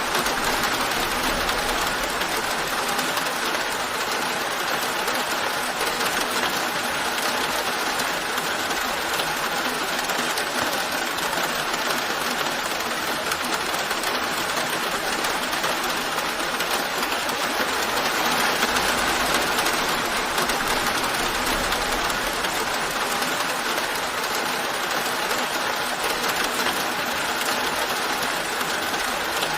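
Steady rain falling, a constant even hiss that swells slightly about two-thirds of the way through.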